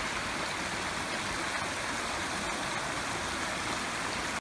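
Creek water rushing over rock: a steady, even hiss of falling water that cuts off suddenly at the end.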